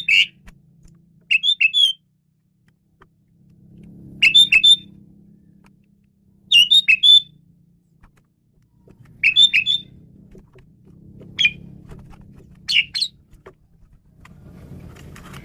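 Male Asian pied myna (jalak suren) calling in short phrases of three or four sharp whistled notes, about seven phrases spaced two to three seconds apart, over a low background hum.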